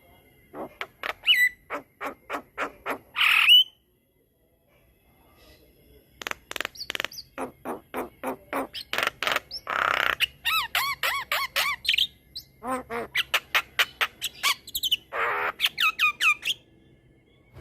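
Javan myna singing a long, varied song: fast runs of short clicking notes broken by harsh squawks and wavering whistled notes, with a pause of about two seconds early on after the first squawk.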